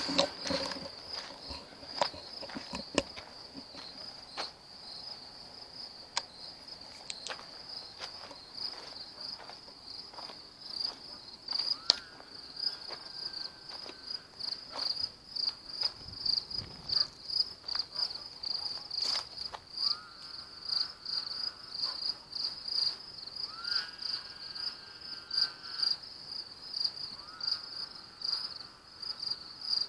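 Crickets chirping in a steady, fast-pulsing high trill. Over it come several faint, drawn-out pitched calls of about two seconds each from an unseen animal, which the listeners take for a lynx. A few knocks and footsteps come in the first seconds.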